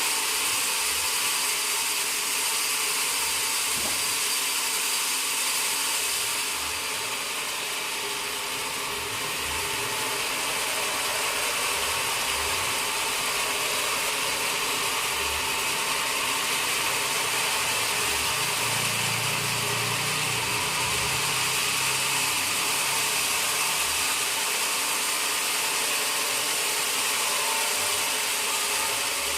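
Sawmill machinery running steadily: a continuous loud mechanical noise with a faint high whine, easing slightly for a few seconds early on.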